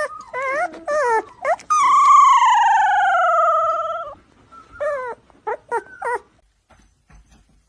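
A pet animal calling: a few short wavering calls, then one long call about two seconds long that sinks slightly in pitch, then four short calls in quick succession.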